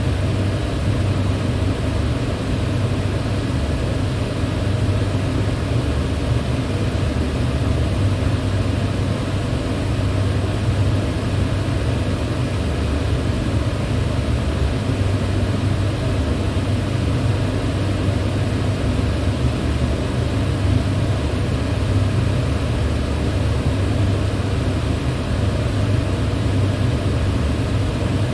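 Electric fan running steadily: an even rush of moving air over a deep, constant hum, with no change.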